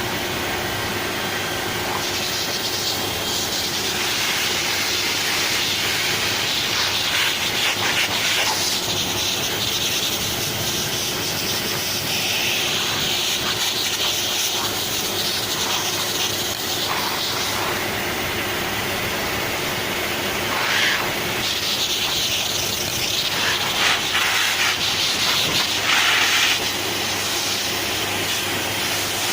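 Hair dryer running, blowing a steady rush of air over a freshly bathed cat's fur, with a faint motor hum underneath; the airy hiss swells and eases several times as the dryer is moved.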